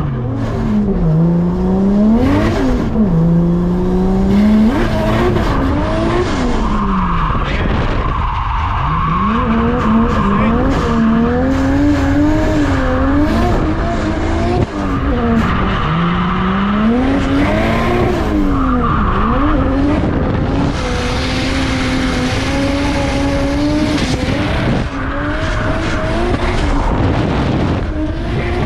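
Turbocharged RB25 Neo straight-six revved hard while drifting, its pitch climbing and dropping again and again through shifts and throttle lifts, with stretches of tyre squeal.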